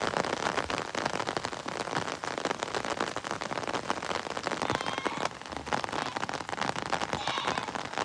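Heavy rain falling: a dense, steady hiss of many drops striking surfaces.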